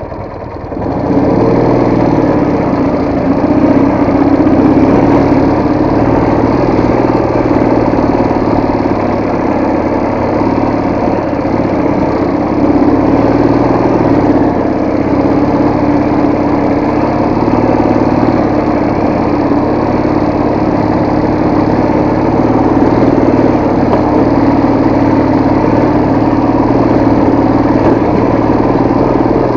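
Soviet motorcycle engine running while riding, picking up about a second in and then holding steady with small rises and falls in engine speed.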